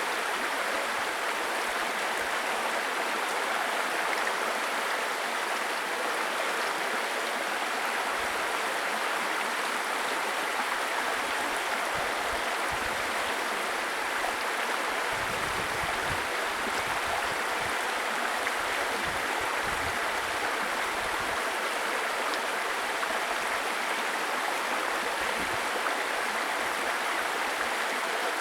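Babbling brook: water running steadily over stones, a constant rushing and bubbling with occasional low gurgles.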